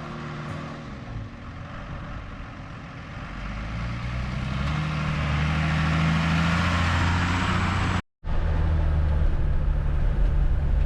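Old GMC pickup truck's engine running under way, with a rushing noise that grows louder from about halfway through as the truck pulls harder. The sound cuts out abruptly for a moment about eight seconds in.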